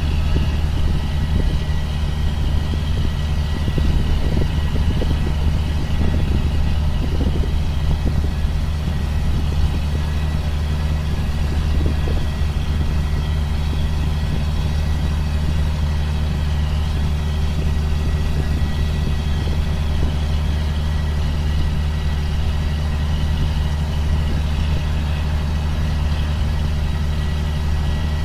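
Steady low drone of a 2005 John Deere self-propelled sprayer running at an even pace.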